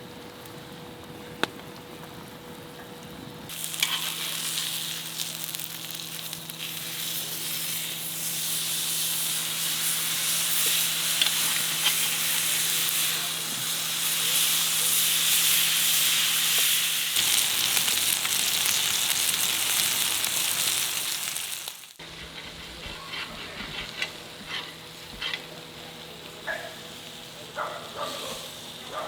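Food frying in hot grease with a loud, steady sizzle that starts a few seconds in and stops suddenly about two-thirds of the way through. Scattered pops and crackles follow.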